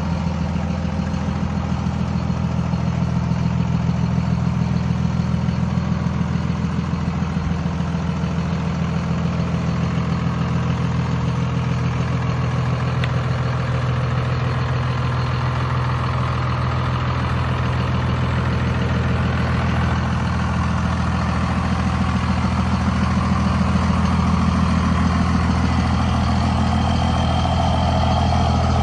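2002 Dodge Ram 2500's 5.9-litre 24-valve Cummins inline-six turbo diesel idling steadily, with an even diesel clatter.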